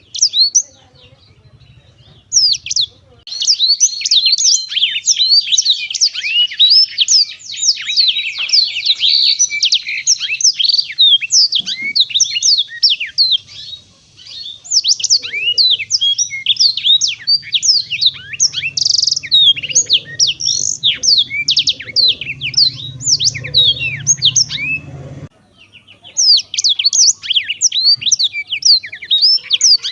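Black-throated canary (blackthroat) singing a long, fast, twittering song of rapid high chirps and trills. It breaks off briefly about a second in, again near the middle, and a few seconds before the end.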